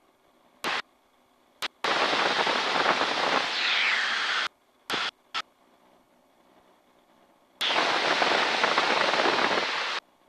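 Aircraft intercom or radio channel keying open and shut: several short clicks and two long bursts of rushing static hiss that cut in and out abruptly, with a faint falling whistle in the first burst.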